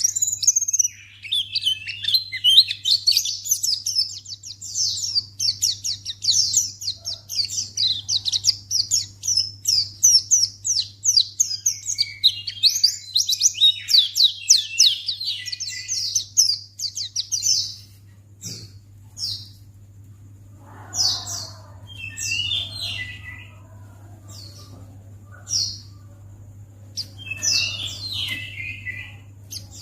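White-eye (pleci) song: a fast, high twittering chatter that runs unbroken for the first eighteen seconds or so, then breaks into scattered short calls. A faint low steady hum lies underneath.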